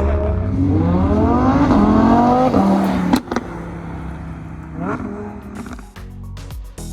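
A car engine revving: it rises steeply in pitch for about two seconds, drops back with a sharp pop, then gives a second short blip of the throttle about five seconds in.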